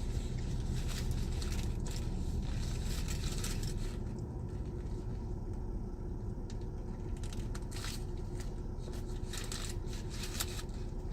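Paper and plastic fast-food wrappers and bags crinkling and rustling in several short bursts, over a steady low rumble inside a car.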